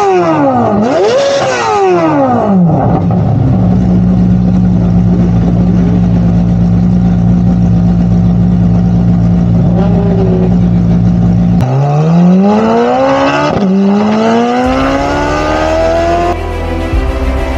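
Corvette C8 Z06's flat-plane-crank V8 blipped up and down a few times, then holding steady revs for several seconds. About twelve seconds in it accelerates hard, the pitch rising, dropping at an upshift, and rising again. Music comes in near the end.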